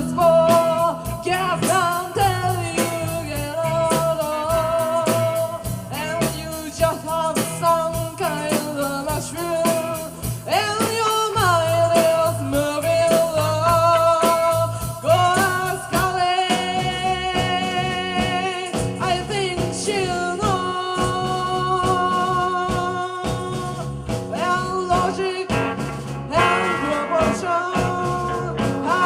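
Rock song with a sung vocal line over drums and guitar; the voice holds long notes and slides between pitches.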